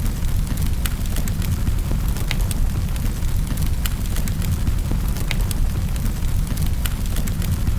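Wood fire crackling in a fireplace: a steady low rumble of flames with scattered sharp pops and snaps, several a second.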